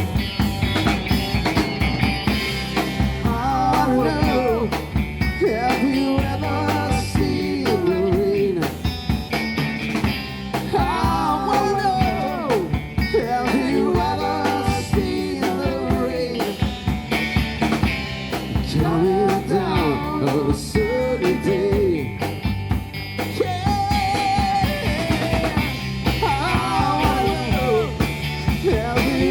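A band playing a rock song instrumental break with drum kit and bass, under a sliding lead melody in repeated phrases.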